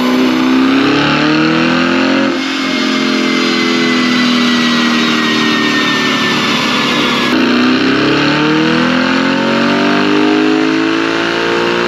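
Tuned Audi RS6 engine under load on a chassis dyno, rising in pitch as it revs. The pitch drops suddenly about two seconds in, holds and sags slightly, then climbs again through the second half.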